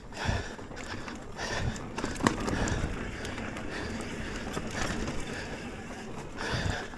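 Mountain bike riding over rough dirt trail: tyre and trail noise with the rattle of the bike, broken by a few sharp knocks from bumps, the sharpest a little past two seconds in.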